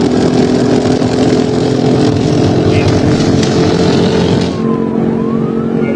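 Police patrol car at pursuit speed, heard from inside the cruiser: a steady engine and road drone under loud wind and tyre hiss. About four and a half seconds in the hiss drops away and a siren wail starts, rising and falling.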